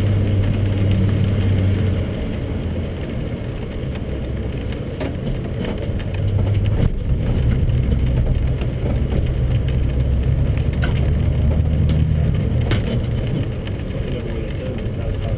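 BMW 540's V8 engine heard from inside the cabin at light throttle on a wet road, with tyre and road noise. Its low note eases off about two seconds in and picks up again at about six and a half seconds.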